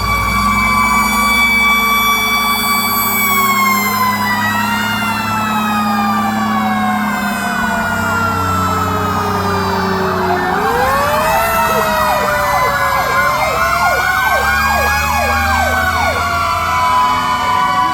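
Several fire truck sirens sounding at once, their pitches slowly falling and rising against each other, with a fast warbling siren joining about ten seconds in, over the low running of the trucks' engines.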